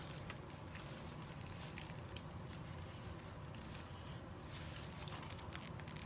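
Faint scattered clicks and crackles of people eating burgers, over a steady low hum.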